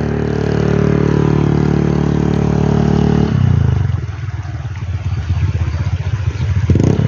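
Vehicle engine running steadily, then dropping to a lower, rougher note about three seconds in.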